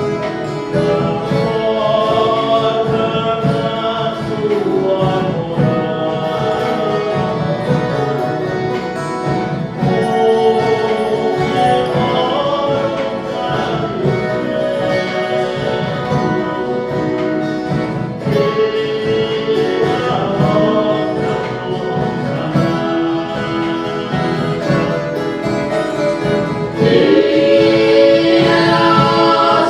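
Ensemble of viola caipira (Brazilian ten-string guitars) playing a Christmas song with group singing. The singing swells louder near the end.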